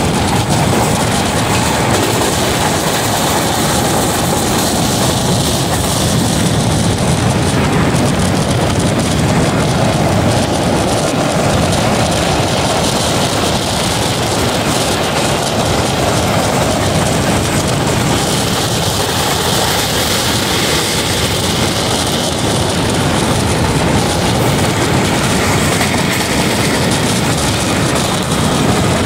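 Tezgam express train running at speed: a loud, steady rush of wheel and rail noise.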